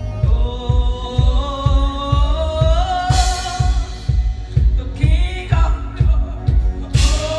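Live gospel praise band playing with a singer, over a steady kick-drum beat, with cymbal crashes about three seconds in and again near the end.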